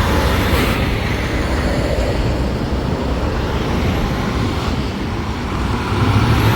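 Trucks of a convoy driving past: steady engine rumble and road noise, growing a little louder near the end.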